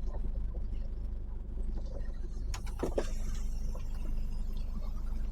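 A lorry's diesel engine running as a steady low rumble heard inside the cab. A short, loud knock comes about two and a half to three seconds in.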